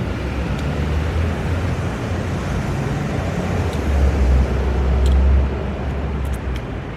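Street traffic: a steady hum of road noise with a passing vehicle's low engine rumble that swells, is loudest about four to five seconds in, and fades near the end.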